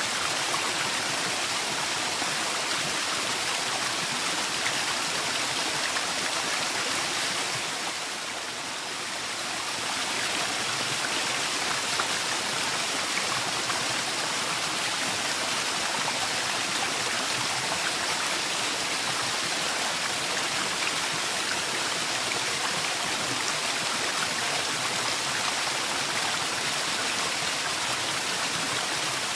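Waterfall pouring steadily: an even rush of falling water, dipping briefly in loudness about eight seconds in.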